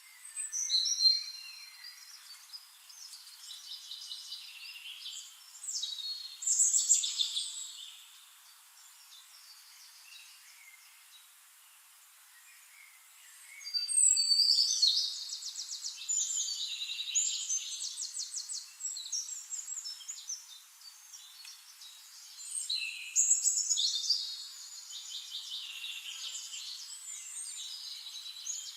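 Several songbirds singing and calling in overlapping high-pitched phrases, some in fast trills of rapidly repeated notes. The singing drops to a faint lull for several seconds about a third of the way in, then resumes more densely.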